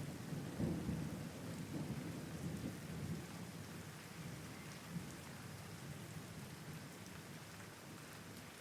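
Steady rain falling, with a low rumble of thunder in the first few seconds that dies away, leaving the rain alone.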